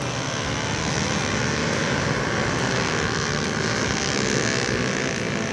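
Pit bike engines running at speed, a steady sound with no let-up.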